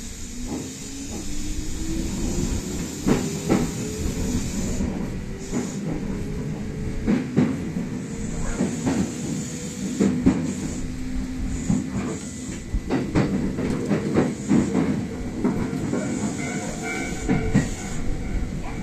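Kintetsu electric express train heard from inside its front car as it pulls away and accelerates: the traction motors' whine rises steadily in pitch over several seconds under a running rumble, with repeated clicks and knocks of the wheels over rail joints.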